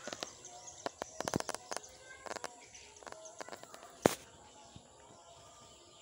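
Birds chirping and twittering in short bursts, with a single sharp knock about four seconds in that is the loudest sound.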